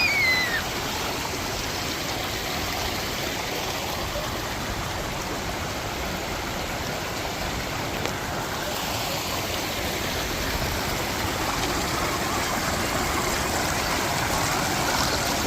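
Water of a river and waterfall rushing steadily, an even hiss that grows a little louder in the second half. A child's brief high voice is heard at the very start.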